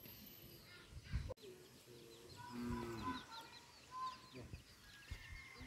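Birds chirping: a quick run of short, high chirps, several a second, starting about a second and a half in.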